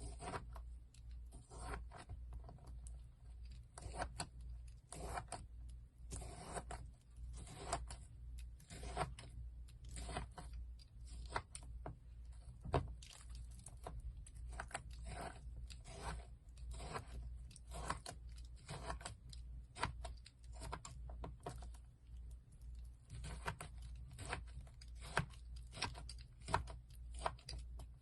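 Slime being squeezed, stretched and poked by hand, giving a run of irregular crackles and sticky pops over a steady low hum.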